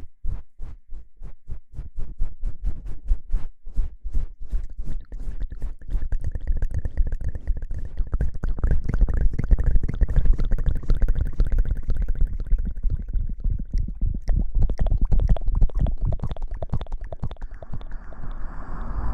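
Close-miked ASMR rustling: crackling and rubbing right at the microphone. It starts as separate ticks and thickens a few seconds in into a dense, continuous crackle with a heavy low rumble.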